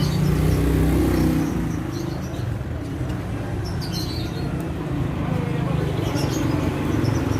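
Yamaha F1Z-R two-stroke motorcycle engine running through a stainless racing exhaust, idling steadily and a little louder for the first second or so.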